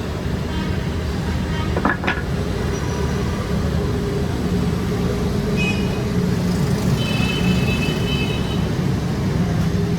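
Steady low mechanical drone, with thin high-pitched whines about five and a half and seven seconds in, and a sharp click about two seconds in.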